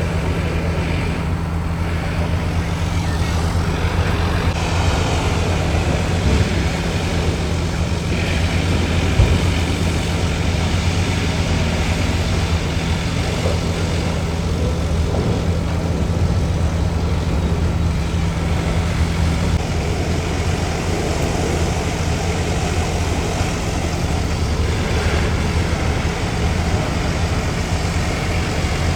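Logging truck's diesel engine running with road noise: a steady low drone, with one short knock about nine seconds in.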